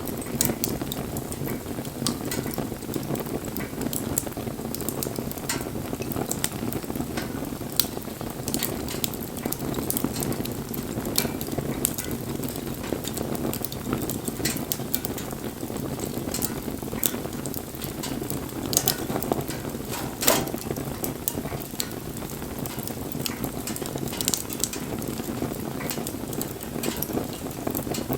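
Wood bonfire crackling: a steady low rush of burning with frequent sharp pops and snaps, one louder snap about twenty seconds in.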